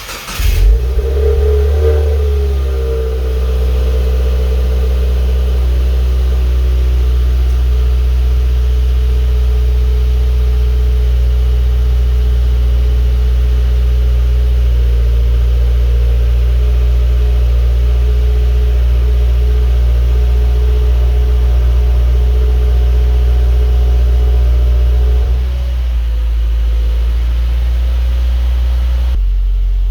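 2017 Subaru WRX's turbocharged flat-four engine starting with a brief flare, then settling into a steady idle through a FactionFab axle-back exhaust with no mufflers or resonators.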